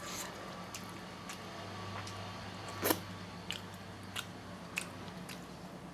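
A person chewing food close to the microphone, with scattered small clicks and mouth smacks and one louder click about three seconds in, over a low steady hum.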